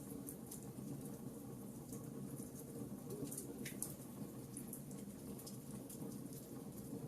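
Wood fire crackling in a fireplace: irregular small pops and snaps, one a little louder about halfway through, over a steady low background.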